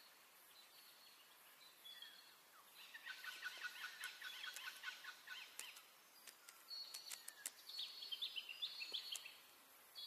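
Birds calling: two quick runs of many short chirping notes, the first about three seconds in and the second about seven seconds in, with a short two-note call repeated a couple of times before them and a few sharp clicks.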